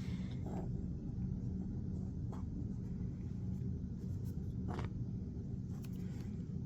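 Steady low background rumble with a few faint, light clicks or taps scattered through it.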